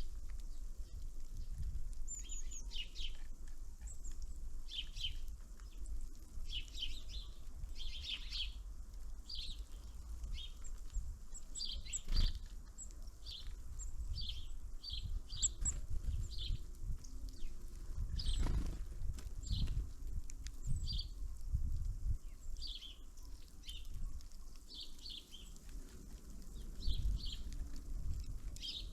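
Small songbirds giving short high chirping calls again and again, with a few very thin higher notes, over a low rumble. A single sharp click about twelve seconds in.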